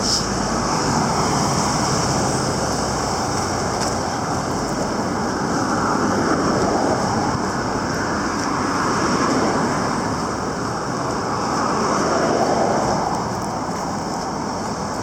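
Steady road-traffic noise, swelling and fading about three times as vehicles pass.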